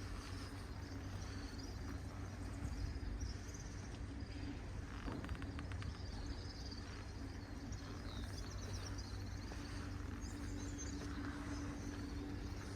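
Outdoor ambience of small birds chirping in short, high trills again and again over a steady low hum, with a few light clicks about five seconds in.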